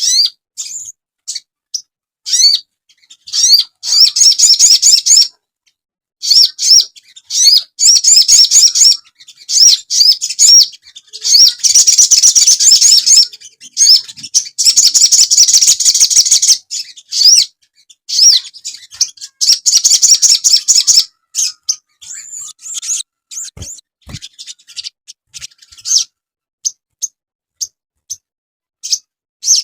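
Sogon bird song: rapid, high-pitched chattering trills in dense bursts of a few seconds with short pauses between, thinning to scattered single chirps near the end. It is a masteran recording played to lure and train birds.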